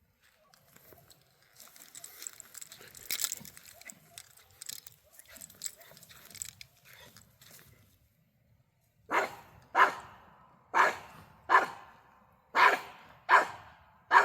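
Faint rustling and scuffling for several seconds. Then a dog barks sharply and repeatedly at an armadillo, about one bark a second, seven in all.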